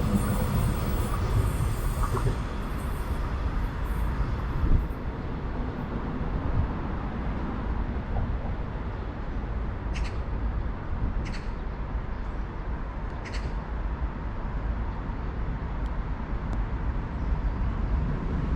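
A passing train's rail noise fading away in the first few seconds, leaving a steady low rumble. Three short, high chirps come about ten to thirteen seconds in.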